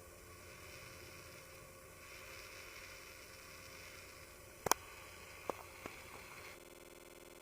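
Faint steady hiss of background noise, broken by a sharp double click about two thirds of the way through and two lighter clicks soon after; near the end the hiss cuts off abruptly to a quieter, even hum.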